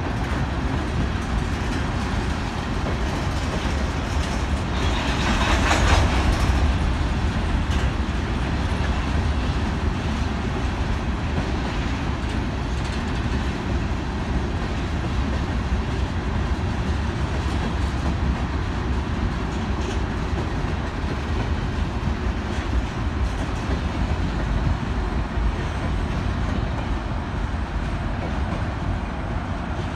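Covered hopper cars of a freight train rolling past, a steady rumble of wheels on rails. About five seconds in there is a brief louder rushing noise.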